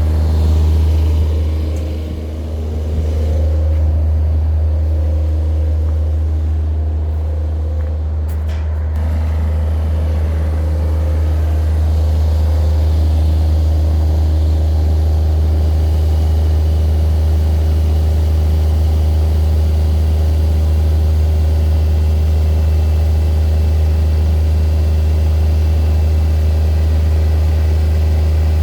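An engine running steadily at idle, a loud, deep, unchanging hum.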